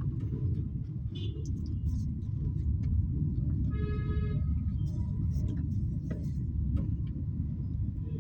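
Steady road and engine rumble heard from inside a moving Toyota Axio, with a short horn from traffic sounding once near the middle and a few small clicks.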